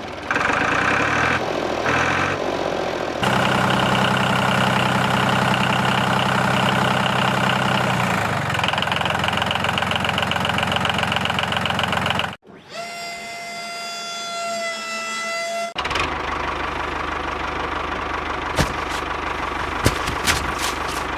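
Small motor running in several cut-together clips, with steady humming and rattling. For about three seconds in the middle it gives way to a steady high-pitched whine, and a few sharp clicks come near the end.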